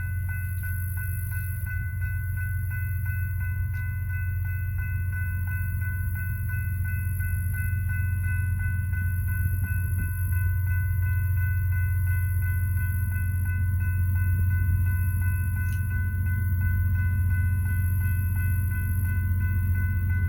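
Freight train rumbling at a grade crossing, the low diesel rumble growing slowly louder, while the crossing bell rings steadily at about three strokes a second.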